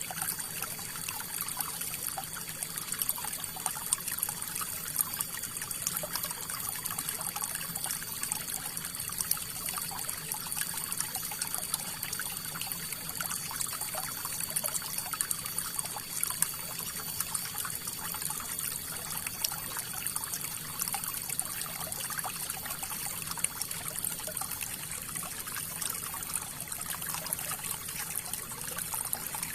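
River water flowing steadily: a continuous rush of water with many small, quick splashes.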